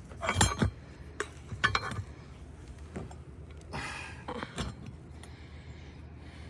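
Hammer striking metal on an asphalt shingle roof: half a dozen irregular knocks with a metallic clink, as a shingle is nailed back into place.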